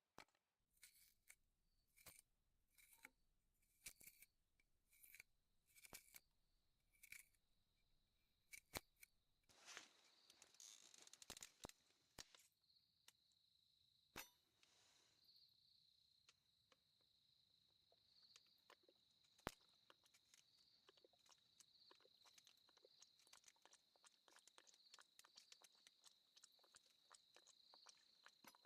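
Near silence: faint scattered clicks, with a faint steady high-pitched tone coming in about halfway through.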